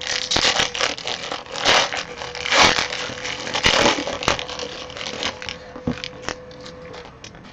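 Trading cards and their plastic sleeves and wrappers being handled: rustling, scraping and crinkling with quick clicks, busiest in the first few seconds and tailing off near the end.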